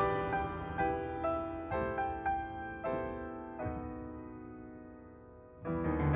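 Two pianos playing a piano duet arrangement of spirituals: a soft passage of chords struck one after another and left to fade, getting quieter, then a loud full-bodied entry near the end.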